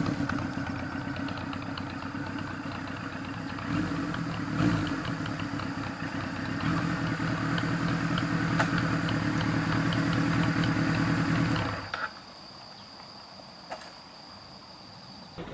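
Kawasaki air-cooled Z1000 inline-four idling with a couple of small swells in revs, then cutting off suddenly about twelve seconds in. After that only a faint steady high tone remains.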